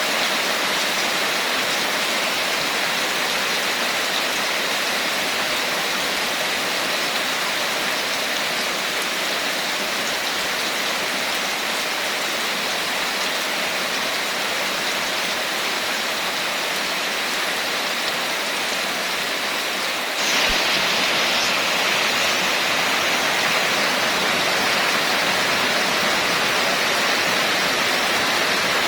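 Steady rain falling, an even, dense hiss of drops. About twenty seconds in it suddenly gets louder and hissier and stays that way.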